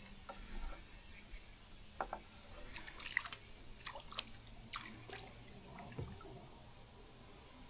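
Faint water dripping and trickling, with scattered light clicks that come thickest in the middle, over a steady high-pitched whine.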